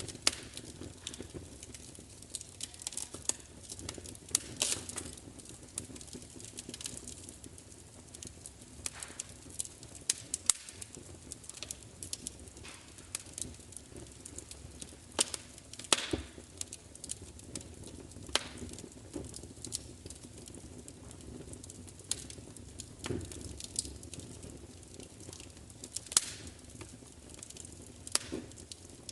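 Wood fire crackling: irregular sharp pops and snaps over a low, steady rumble of flame, with a handful of louder pops scattered through.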